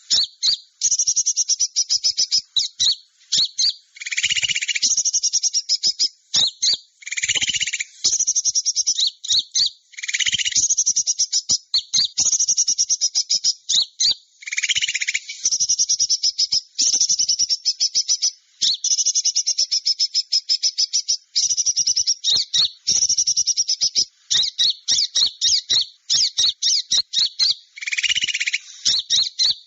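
Small-bird lure call (suara pikat): rapid, high-pitched chirping and trilling that repeats without pause. A lower, louder call breaks in about five times.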